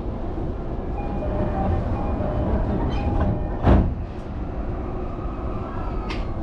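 Chuo-Sobu Line local commuter train standing at a station platform: a steady low rumble with a faint electrical hum, and one loud sharp thump a little past halfway.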